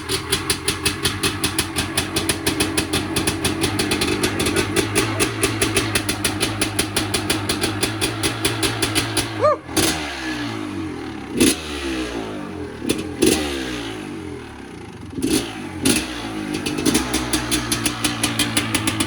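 Honda CR two-stroke dirt bike engine running at a fast, even idle, dipping about halfway through, then blipped with several quick throttle revs before settling back to a steady run.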